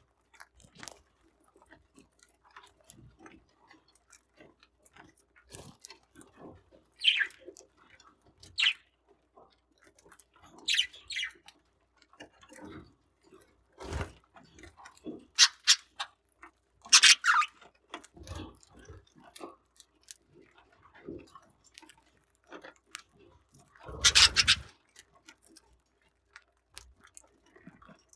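Budgerigars pecking and cracking millet seed, a patter of small irregular clicks, with a few short, louder high chirps scattered through.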